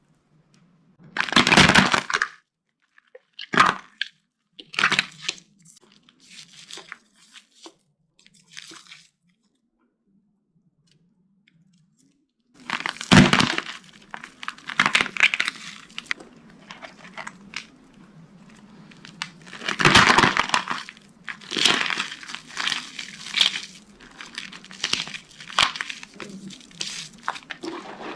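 Dry soap being crushed by hand, cracking and crunching. A few sharp cracks and some fainter crumbling come first, then a short pause, then steady crunching and crumbling broken by loud cracks.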